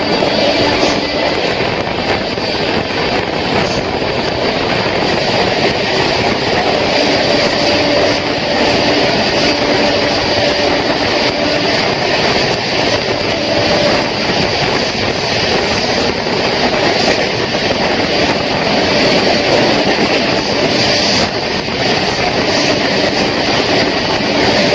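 Passenger train running along the rails: a steady, loud rumble and rattle of the wheels and coaches, with a faint clickety-clack.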